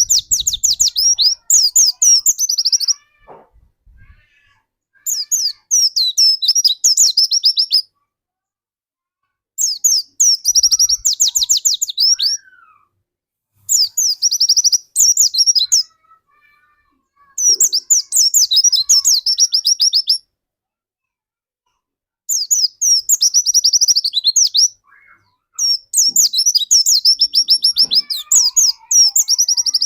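Pleci dakun, a white-eye (Zosterops), in full song: rapid, high-pitched twittering phrases of two to three seconds each, seven in all, separated by short pauses.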